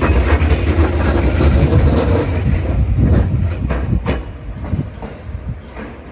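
JR Central 211 series electric train pulling into the station past the platform: a loud low rumble of the passing cars, then wheels clacking over rail joints several times about three to four seconds in. The sound fades as the last car passes and the train slows.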